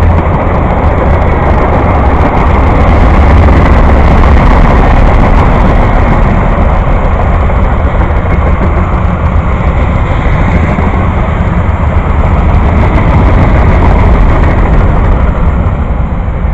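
A train passing close by, a loud, steady rumble with a heavy low end that eases off near the end.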